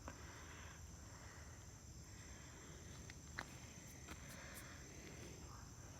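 Near silence with a faint, steady high-pitched chirring of crickets, and a soft click about three and a half seconds in.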